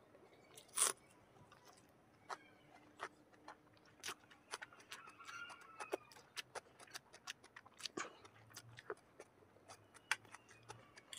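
Close-miked chewing of food: many short, sharp wet mouth clicks and smacks at an irregular pace, with a louder click a little under a second in.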